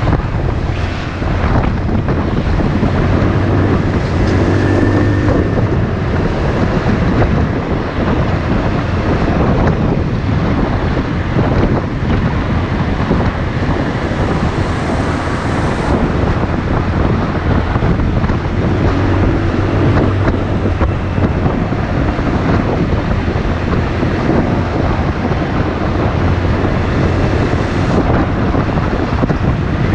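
Motorcycle engine running while riding, under heavy wind rush on the microphone.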